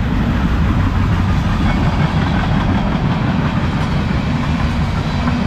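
Freight train tank cars rolling past: a steady rumble of steel wheels on the rails with some clickety-clack.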